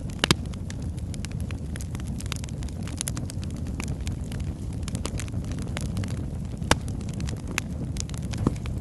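Wood logs burning in a fireplace: a steady low rumble of flame with frequent sharp crackles and pops. The loudest pops come just after the start and about two-thirds of the way through.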